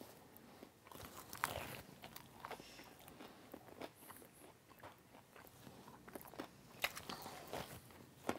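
A person biting and chewing a pancake: faint, irregular mouth clicks and crackles, with the loudest bites about a second and a half in and near seven seconds in.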